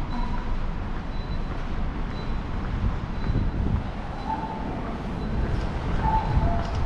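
Low rumble of a subway train in the station, with brief higher tones a few times and growing louder near the end.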